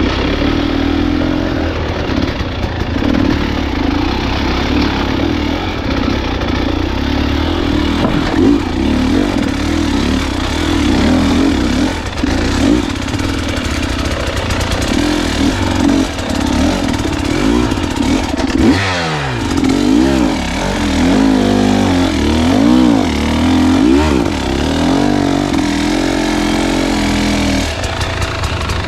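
Dirt bike engine running under way on a trail, steady at first. About two-thirds of the way in the revs start rising and falling again and again as the throttle is worked on and off.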